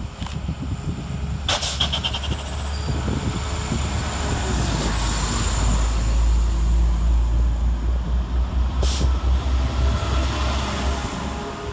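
Class 172 Turbostar diesel multiple unit running through the station. Its low rumble builds to a peak past the middle and then eases, with a sharp clatter about a second and a half in and another near the end.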